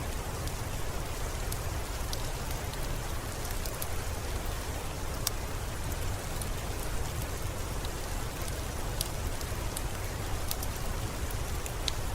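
Steady rain falling, an even hiss over a low rumble, with scattered sharp clicks throughout.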